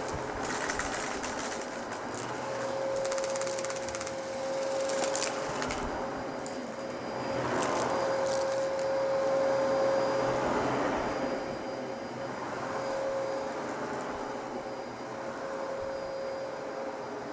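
Dyson DC33 upright vacuum cleaner running with a steady whine. Crackling and clicking come through it in clusters near the start, about five seconds in and about eight seconds in, as it sucks up debris in a mess test.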